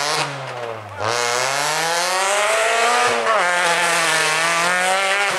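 Peugeot 206 rally car's engine revving hard under acceleration, its pitch climbing through the revs. There is a brief lift just before a second in, then full throttle again, and a gear change about three seconds in.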